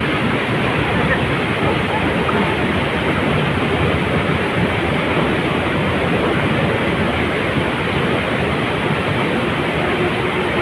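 Waterfall at a spring, its falling water making a loud, steady rush.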